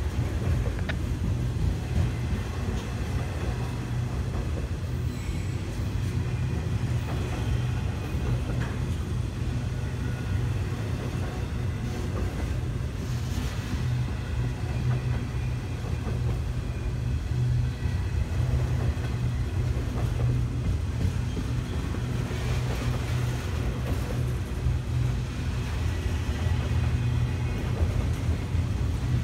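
Long train of autorack freight cars rolling slowly past: a steady low rumble of wheels on rail, with faint squeals and a few light clanks.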